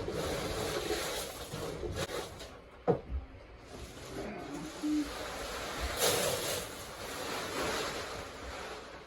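Cracked corn and beef pellets rustling and hissing as they are poured and stirred together for calf feed, with a sharp knock about three seconds in.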